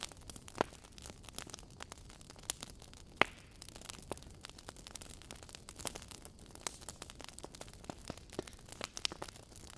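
Burning logs crackling in a fireplace: a steady scatter of small snaps and pops over a low hiss, with one louder pop about three seconds in.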